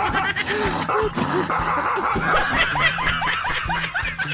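A dog barking and yapping in a rapid string of short, high calls, thickest in the second half.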